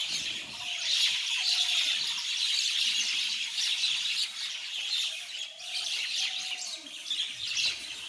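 A large flock of mynas chattering and chirping together at a feeding spot, a dense continuous din of many overlapping calls.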